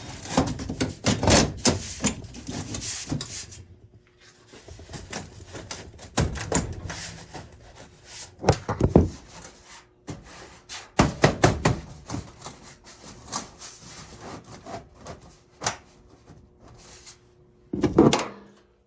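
Irregular clanks, knocks and scraping of metal parts and tools being handled during boiler service work, with short pauses between bursts and a louder clatter near the end.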